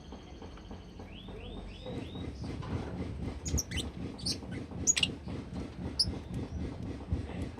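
A pet lovebird chirping: a quick run of four short rising chirps, then scattered sharp, high squeaks. Under them is a steady low rustling clatter from about two seconds in.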